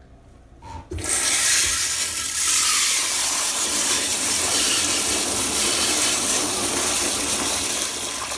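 Crane Plumbing toilet flushing: a loud rush of water starts suddenly about a second in and runs on, easing slightly near the end.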